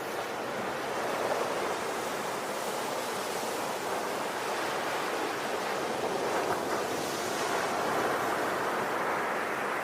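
Ocean waves washing onto a shore in a steady rushing surf, swelling and easing slowly.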